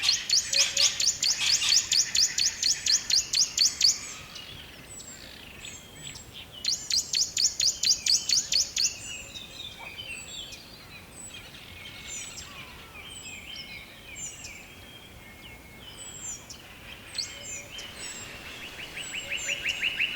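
Songbirds singing in a forest: a loud, fast trill of rapidly repeated high notes, sung twice. Softer scattered chirps and short calls come in between, and a lower-pitched trill begins near the end.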